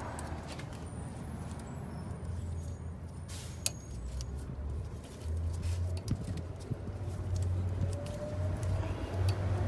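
Light metallic clicks and clinks of hand tools and parts as an engine-bay part is taken off a Honda Civic, over a steady low hum. One sharper click comes about three and a half seconds in.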